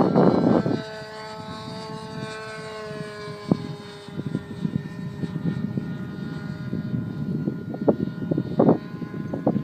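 Glow-fuel engine of a radio-control P-51 Mustang model plane running in flight, a steady whining tone whose pitch falls slightly. Wind buffets the microphone loudly in the first second and in short gusts later.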